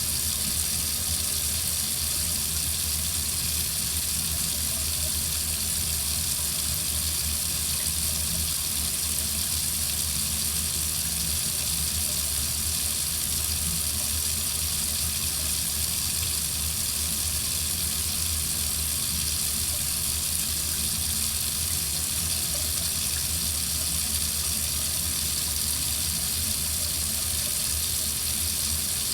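Water running steadily from a faucet into a sink, an even, unbroken hiss.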